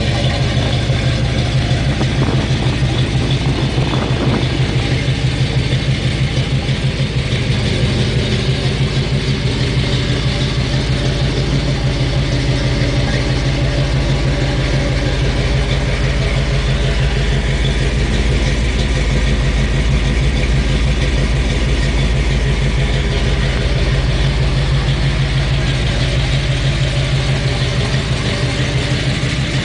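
1967 Pontiac GTO's 400 cubic-inch V8 idling steadily, its exhaust giving an even, rapid low pulse.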